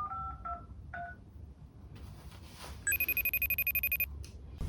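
Phone keypad tones as a number is dialed, several short beeps in the first second. About three seconds in, the phone rings with a rapidly pulsing electronic tone, about ten pulses a second, for just over a second.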